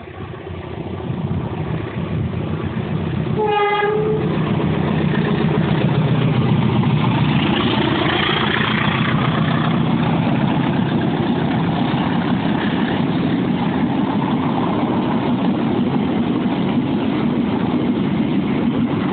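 Commuter Line Bandung Raya passenger train giving one short horn blast a few seconds in, then its coaches passing close by with a steady rumble and rush of wheels on rails.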